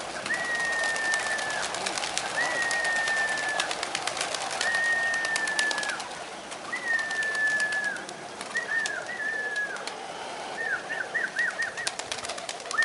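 A flock of homing-type fancy pigeons, with a high whistle repeated about every two seconds. Each whistle is held about a second and dips at the end, and it turns into a run of quick short chirps near the end. Many sharp clicks run through it, fitting wings clapping and flapping as the birds take off.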